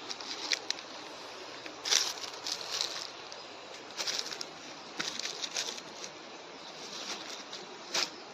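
Steady rushing of flowing stream water, with short crackling rustles every second or two, the loudest about two seconds in and near the end.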